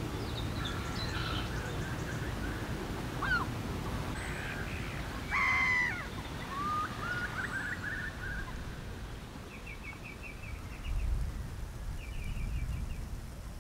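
Several wild birds calling: a loud harsh call lasting under a second about five seconds in, scattered chirps and short upward calls, and two brief rapid trills near the end, over a steady low rumble.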